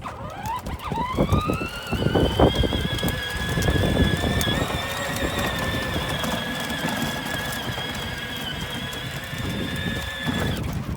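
A toy truck's small electric motor whining, rising in pitch over the first second or so as it gets going, then running steadily before cutting off suddenly near the end. Low rumble and wind buffeting run underneath.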